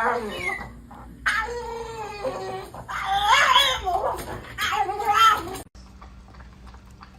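A pet animal yowling in about four drawn-out cries whose pitch wavers up and down. The cries cut off suddenly about five and a half seconds in, leaving faint ticking.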